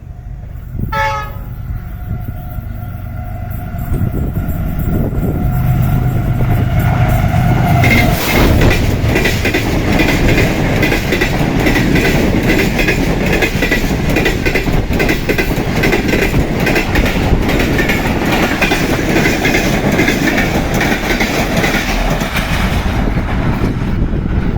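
Passenger express train passing at speed behind a diesel-electric locomotive: the horn blows one long held chord for several seconds and drops in pitch as the locomotive goes by. Then the coaches' wheels clatter rapidly over the rail joints until near the end.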